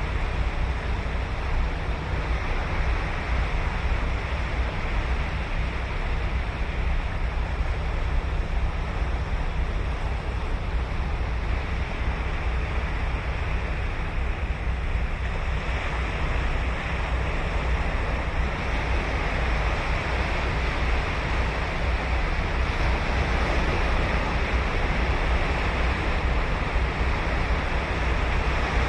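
Ocean surf breaking on a sandy beach in a steady, continuous wash, swelling slightly about halfway through and again near the end.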